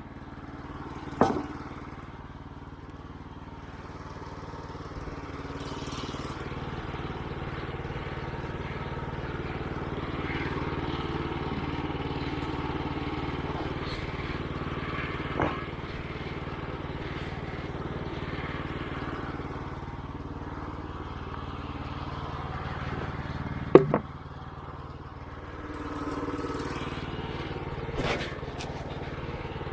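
Woodland Mills HM122 band sawmill's 9.5 hp gas engine running steadily while the band blade cuts through a walnut log, with a few sharp knocks along the way.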